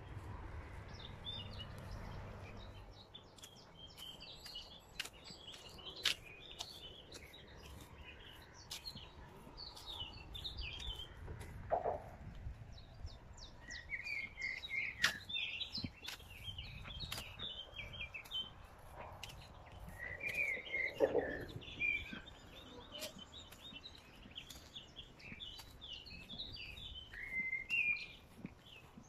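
Small birds chirping and singing, with scattered sharp clicks throughout.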